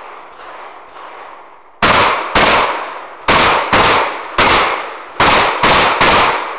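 Shotgun fired eight times in quick succession, starting about two seconds in, the shots mostly in pairs about half a second apart, each with a short ringing tail. Before the first shot there is only a lower background noise.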